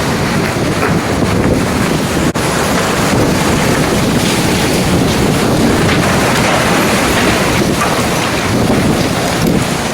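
Strong storm wind with rain, blowing hard across the microphone in a steady loud rush, with a brief dropout a little over two seconds in.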